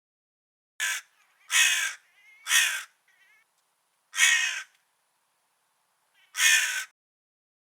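Crow cawing: five harsh caws, the first shorter, the next two close together, then two more spaced out after a pause.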